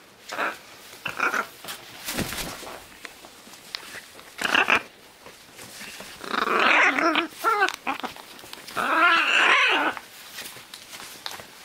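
Scarlet macaws giving harsh, raspy calls: a few short calls, then two longer rasping calls with a wavering pitch in the second half.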